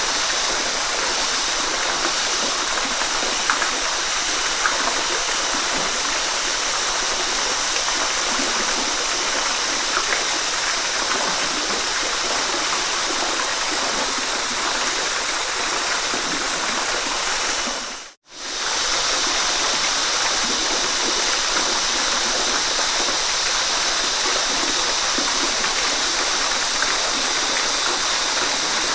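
Waterfall rushing steadily, an even hiss of falling water strongest in the higher range. It fades briefly to silence and straight back about eighteen seconds in.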